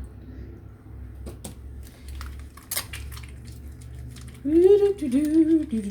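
A few sharp clicks and knocks as a bar of soap is handled at the sink. Then, from about four and a half seconds in, a louder wordless woman's voice humming with a wavering pitch.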